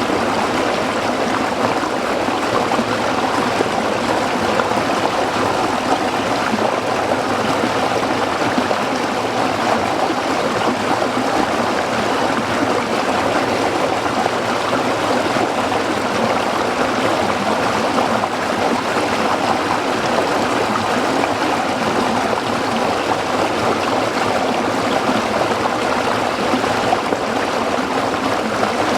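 A stream running over rocks: a steady, even rush of flowing water with babbling and gurgling.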